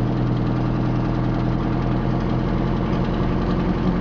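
Straight-piped Detroit Diesel 8V71, a two-stroke V8 diesel, running loud and steady, its note stepping up in pitch about three seconds in.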